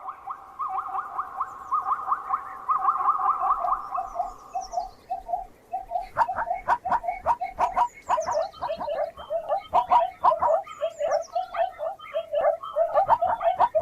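Animal calls: a fast rattling trill, then a quick run of short repeated chirps, with faint high falling notes above them.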